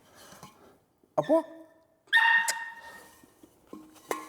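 Seven-week-old Belgian Malinois puppy giving two small, high-pitched barks about a second apart, the second one longer. The puppy is being taught to bark on command for food.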